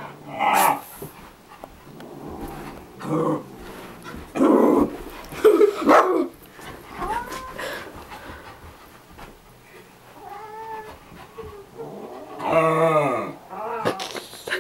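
A cat growling and yowling in repeated short bursts while being wrestled with, the loudest a long wavering yowl near the end.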